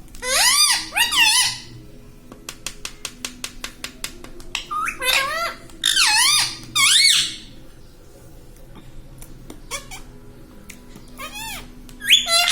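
Ringneck parrot calling in short squeaky calls, each rising then falling in pitch, in small groups of two or three. A fast run of clicks comes about three seconds in.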